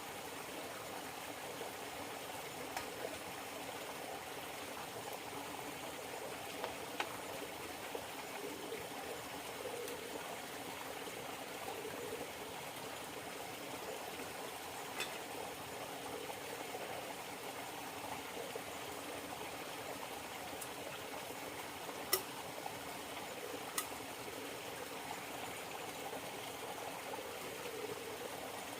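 River water flowing steadily, with a few sharp ticks scattered through it.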